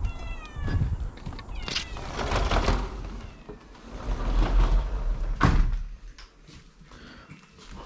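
A cat meows at the start, begging for food it is about to be given. Then come rustling and handling noises, and a sharp knock about five and a half seconds in.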